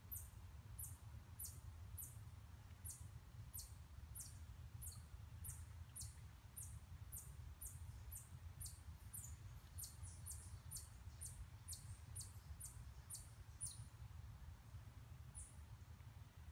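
Faint, very high, thin chirps from a small bird, each sliding down in pitch, repeated about twice a second and stopping near the end, over a low steady rumble.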